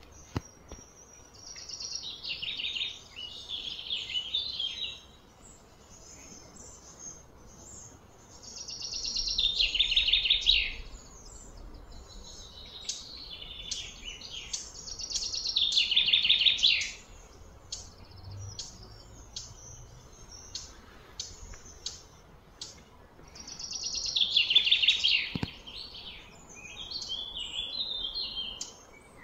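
A bird calling in loud repeated phrases, each about two seconds of fast notes falling in pitch, coming every six to eight seconds, with short chirps in between.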